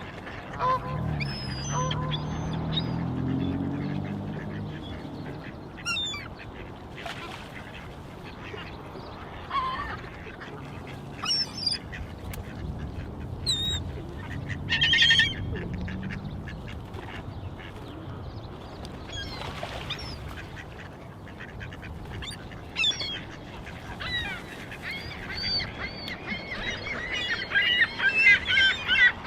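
A flock of waterbirds calling: scattered honks and calls, building into a dense chorus of honking in the last few seconds. There is a low rumble in the first few seconds.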